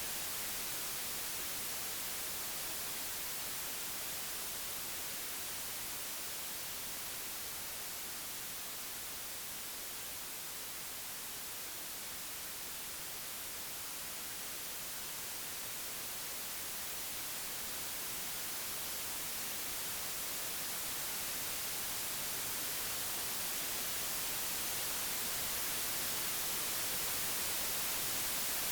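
Computer-generated white noise: a steady, even hiss, strongest in the treble, easing slightly softer around the middle and swelling a little louder toward the end.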